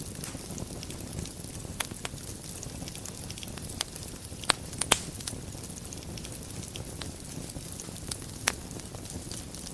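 Wood fire burning in a fireplace: a steady low rumble of flames with scattered crackles and sharp pops, the loudest two pops in quick succession about halfway through.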